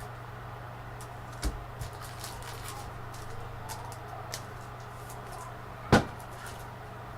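Trading cards being handled on a table: small clicks and rustles, a knock about a second and a half in and a louder sharp knock about six seconds in, over a steady low hum.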